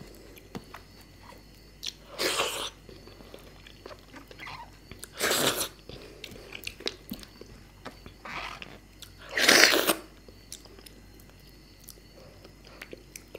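Close-up eating sounds of a person chewing fish curry and rice: wet chewing and small mouth clicks throughout, with four short, louder hissing rushes.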